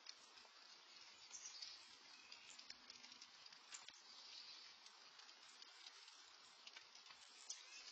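Faint light rain falling, a steady soft hiss scattered with small ticks of individual drops.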